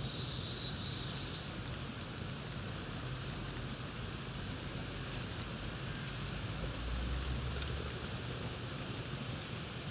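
Campfire crackling: a steady hiss with many small sharp pops and snaps. A high steady sound fades out about a second in, and a low rumble swells briefly around seven seconds in.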